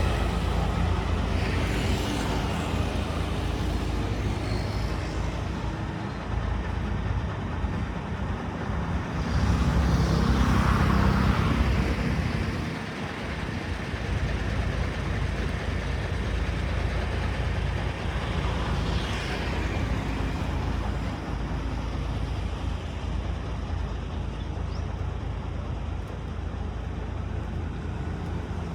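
Road traffic going by: three vehicles pass one after another over a steady low rumble, the loudest about ten seconds in.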